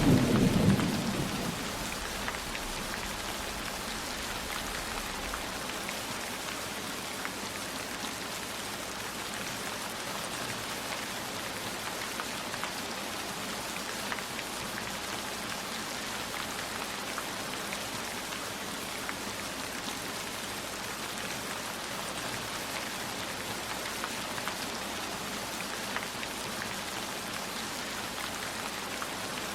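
Steady rain falling, with the tail of a low thunder rumble dying away in the first second or two.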